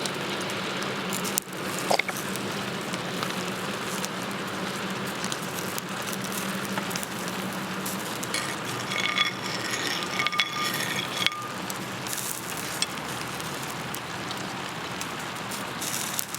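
Steady rain falling, with scattered clicks and crackles from a campfire.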